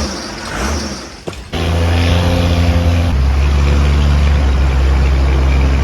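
Cummins diesel engine of a 1969 Dodge D200 crew cab running loudly through its new custom exhaust. It cuts in about one and a half seconds in, and its pitch drops a step about three seconds in as the revs settle.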